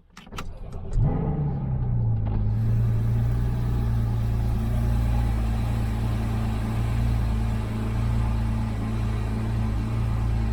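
Porsche 981 Boxster S flat-six with PSE sports exhaust being cold-started. A few clicks come first, then the engine catches about a second in with a brief flare that falls in pitch, and it settles into a steady cold idle.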